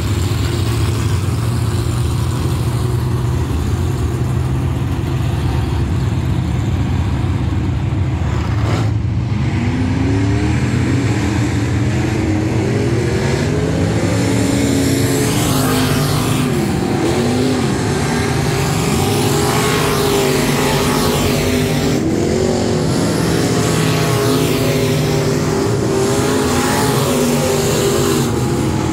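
USRA limited modified race car V8 engines running hot laps. A steady low engine drone carries all through, and from about ten seconds in several other engines rise and fall in pitch as cars go round and past.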